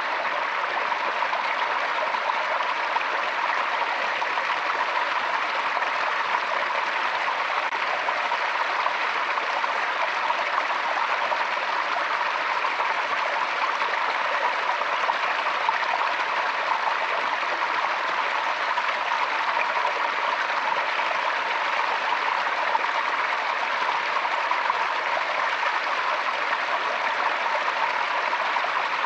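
Forest stream flowing: a steady, even sound of running water.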